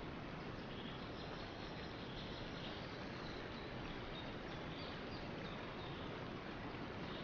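Steady outdoor nature ambience: an even background hiss with faint, scattered high chirps of small animals.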